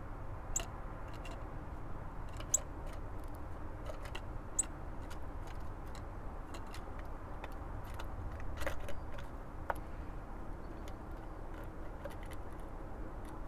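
Sharp, irregular clicks and taps, typical of a Eurasian nuthatch pecking and handling seeds at a bird feeder, over a steady low rumble.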